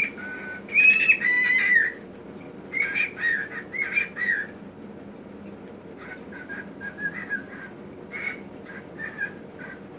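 A pet bird whistling loudly: a long whistled phrase about a second in, another run of whistled notes around three to four seconds in, then softer, shorter chirps.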